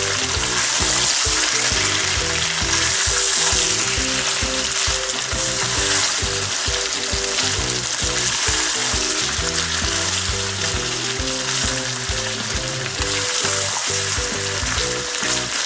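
Mutton, fried onions and fresh tomato wedges sizzling steadily in hot oil or ghee in a wok while a wooden spoon stirs and turns them: the frying (bhuna) stage. Quiet background music plays underneath.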